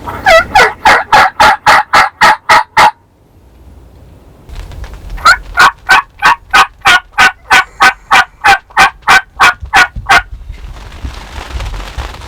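Turkey yelping close by: two long runs of sharp, evenly spaced yelps at about four a second, a dozen in the first and nearly twenty in the second after a pause of about two seconds.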